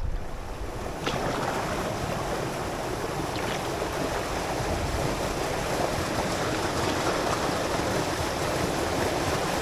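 Steady rushing noise of moving water, with a couple of faint clicks about one second and three and a half seconds in.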